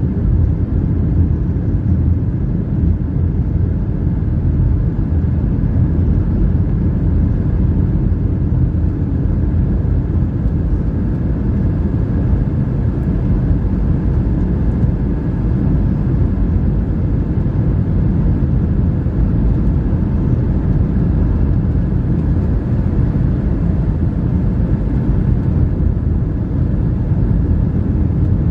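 Steady cabin noise inside a Boeing 757-300 airliner in flight: an even low rumble of engine and airflow noise, with a faint steady hum above it.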